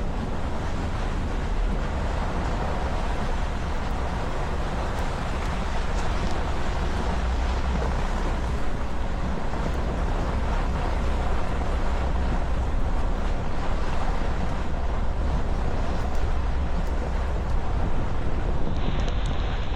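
Steady low rumble and road noise of a vehicle driving slowly. Near the end the higher part of the sound drops away abruptly.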